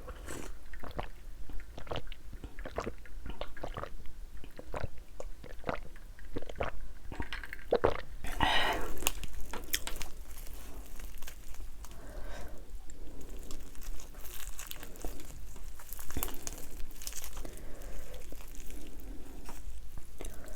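Close-miked biting and chewing of crispy fried chicken wings with a thin, crunchy batter. There are many sharp crunches in the first half and a dense burst of crunching about eight seconds in, then softer chewing.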